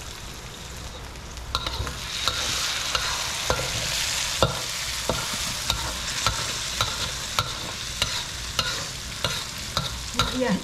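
Sambal chili paste sizzling in a hot wok while a metal spoon stirs it, the spoon clinking and scraping against the pan about once or twice a second. The sizzle grows louder about two seconds in.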